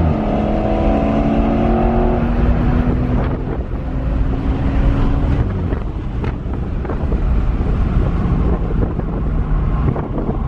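Car engine running at a fairly steady note for a couple of seconds, then easing off and fading by about halfway, leaving a low rumble with wind noise on the microphone.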